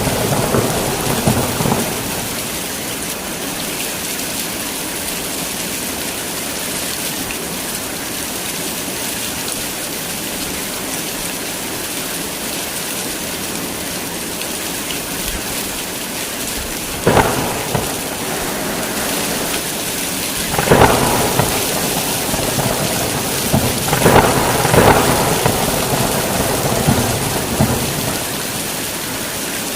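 Heavy rain falls steadily in a thunderstorm. Rolling thunder dies away near the start. Later come three sudden claps of thunder, the last two rumbling on for a few seconds.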